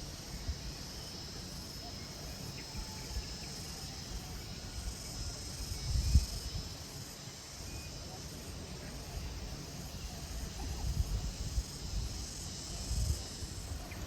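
Garden insects chirring in a steady high drone, with irregular low rumbles underneath, the strongest about six seconds in.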